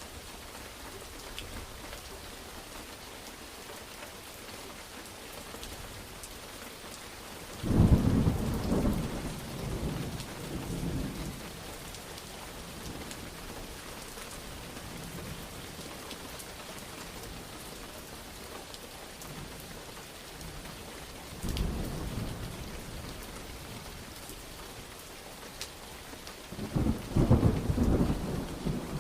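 Steady rain falling, with thunder rumbling three times: a loud roll about a third of the way in that dies away over several seconds, a short one later, and another building near the end.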